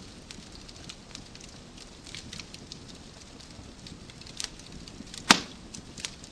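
Wood fire crackling in a fireplace: a steady low rush with many small snaps, and one loud sharp pop about five seconds in.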